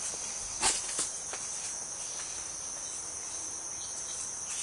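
Crickets trilling steadily as one continuous high-pitched drone, with two short clicks or knocks a little under a second in.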